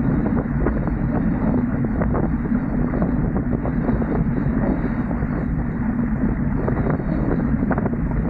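Steady wind buffeting the microphone, with frequent short knocks or splashes through it.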